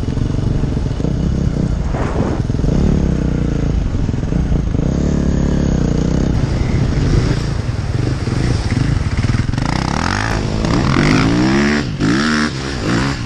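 Enduro dirt bike engine running and revving up and down repeatedly, the pitch rising and falling several times, most strongly in the second half.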